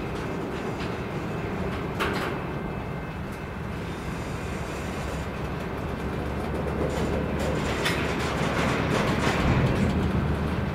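Empty covered hopper cars of a grain train rolling past: a steady rumble of steel wheels on rail, a sharp clank about two seconds in, and a run of clicks over the rail joints near the end as the sound grows louder.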